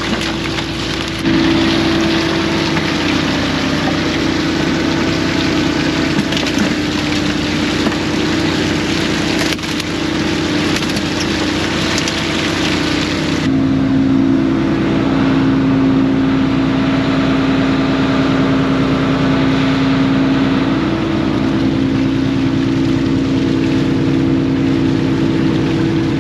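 Fishing boat engine running steadily under way, with a broad rushing noise over it that cuts off abruptly about halfway through.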